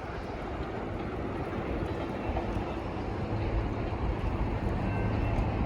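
A freight train rolling past a level crossing: a steady low noise with a low hum coming in about halfway through.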